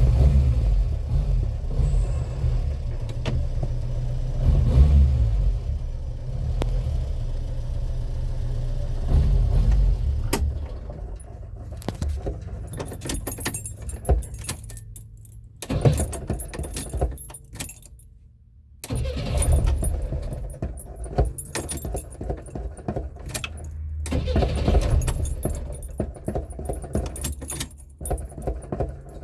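Flooded Renault 4 four-cylinder engine running rough and being revved unevenly. It fades about halfway through, almost stops for a second, then picks up again. A light metallic jingling runs over it.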